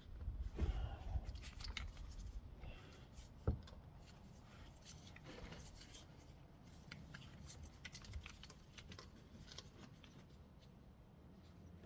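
Faint rubbing, scraping and ticking of hands working at a tight engine oil filter that will not yet turn, with one sharp knock about three and a half seconds in.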